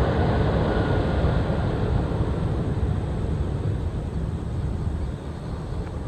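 Airbus A319 jet engines during landing: a steady rush of noise with a faint whine that slowly fades away.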